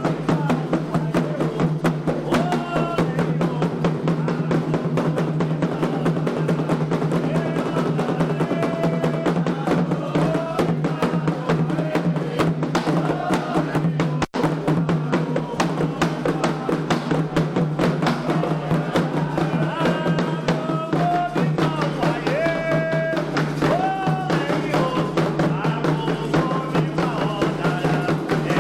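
Candomblé ritual drumming on atabaques, with voices singing a chant over the steady, dense beat. The sound cuts out for an instant about halfway through.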